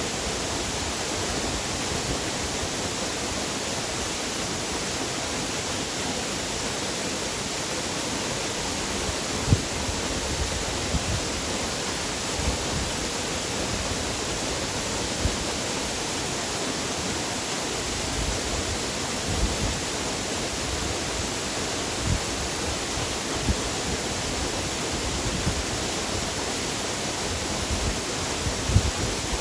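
Waterfall: a steady, unbroken rush of falling water. A few brief low thumps break through now and then.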